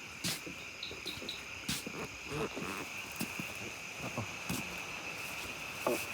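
Night chorus of crickets: a steady high-pitched trill, with scattered faint clicks and knocks over it.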